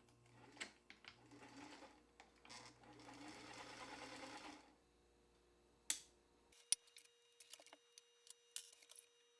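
Vintage sewing machine stitching in two short runs, the first about a second long and the second about two seconds, with a low hum under the stitching. Several sharp clicks follow in the second half, one of them loud.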